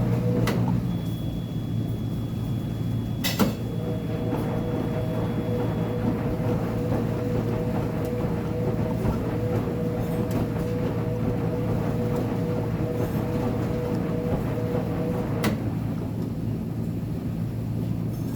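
Uni-Mac UniMat 35 commercial front-load washing machine running a load, a steady motor hum and drone, with a sharp click twice and a faint high whine for a few seconds early in.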